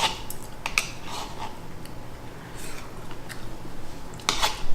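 Close-miked eating of a rice noodle stir fry: chewing, with a few short sharp clicks, most likely a utensil against the dish. The clicks are loudest and most frequent near the end.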